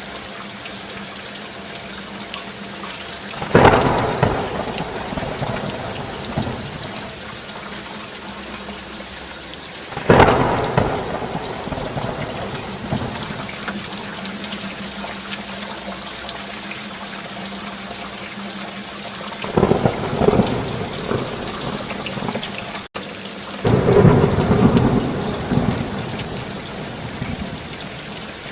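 Steady rain hiss, broken four times by claps of thunder that roll off over a few seconds each.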